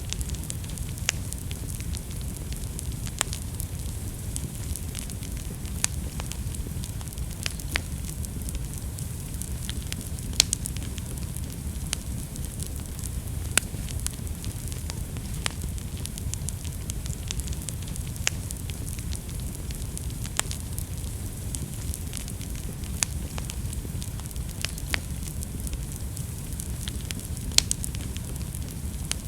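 Wood fire burning in a fireplace: a steady low rush of flames with irregular sharp crackles and pops scattered through it, a few louder pops now and then.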